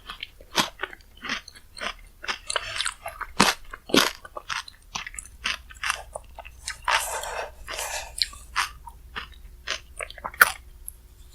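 Close-miked chewing and crunching of a mouthful of bingsu, Korean shaved-ice dessert topped with Chic Choc cookies: a fast, irregular run of crisp crunches.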